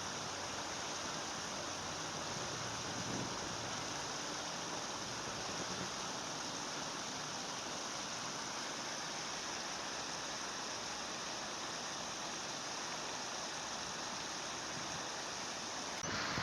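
Steady rushing of a flowing stream, an even wash of water noise with no bird calls standing out. It gets suddenly louder just before the end.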